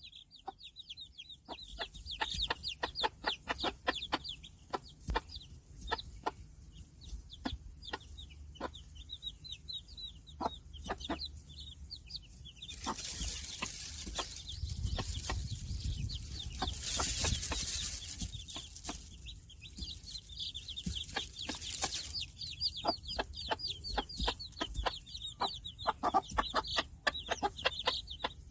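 Five-day-old Cheonggye chicks peeping in quick, high, falling cheeps over a run of short sharp clicks. A rushing hiss comes in about halfway through and stops again about nine seconds later.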